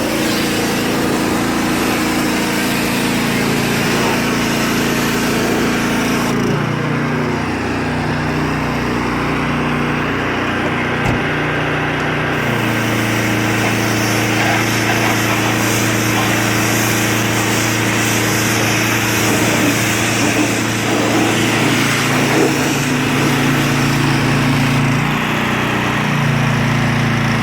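Small petrol engine of a pressure washer running steadily, its pitch stepping up or down a few times as the load changes.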